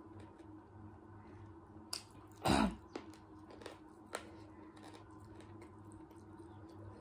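A person eating rice and chicken curry by hand, chewing with small wet clicks and smacks of the mouth. One louder, fuller mouth sound comes about two and a half seconds in.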